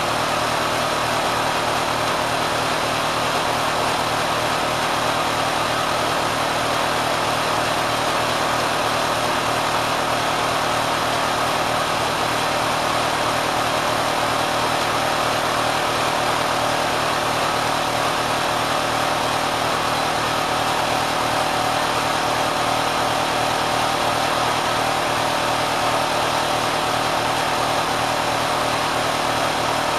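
Kenmore sewing machine driven by a swapped-in 3/4 hp motor, running steadily and loudly with a dense mechanical whir, its speed pushed well past what the factory intended.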